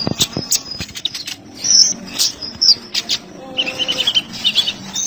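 Kolibri ninja (a sunbird) singing: fast, high-pitched chirps and twitters mixed with sharp clicking notes and short trills.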